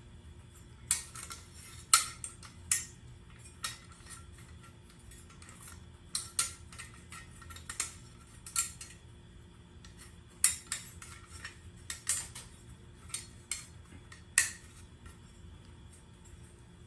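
Irregular light metallic clinks and clicks, about a dozen and a half spread unevenly, as small metal hardware is handled. A faint steady hum sits underneath.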